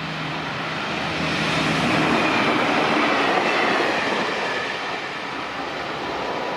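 A train passing close by, its rolling noise swelling to a peak about two to three seconds in and then easing off, with a faint high whine falling in pitch as it goes past.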